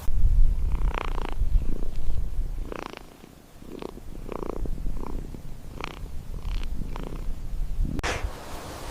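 An animal's low, purring rumble, easing off about three seconds in and then resuming, with short higher-pitched sounds scattered over it.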